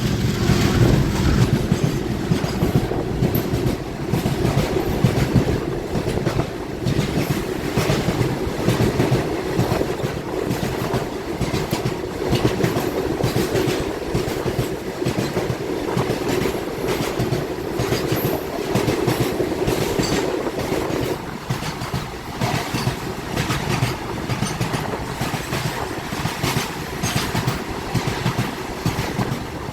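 Jan Shatabdi passenger train running along the track, its wheels clattering over the rail joints in a continuous rattle. A steady hum under the clatter drops away about 21 seconds in.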